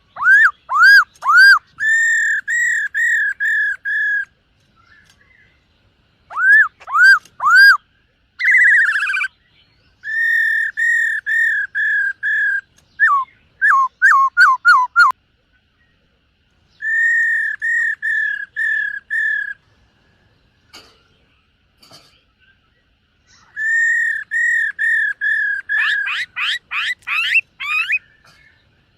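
Black-throated laughingthrush singing loud phrases of repeated clear, arched whistled notes, each phrase a run of five to eight notes with pauses between. One brief harsh buzzy note comes about a third of the way in, and a fast run of rising and falling sweeping notes comes near the end.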